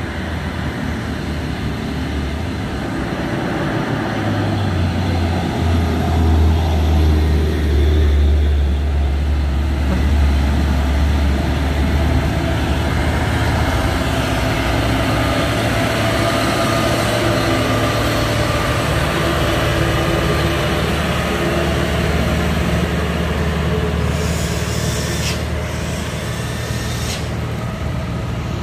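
Heavy truck diesel engine pulling under load as the truck drives past, swelling to its loudest about six to eight seconds in and then running on steadily. Two short hisses near the end.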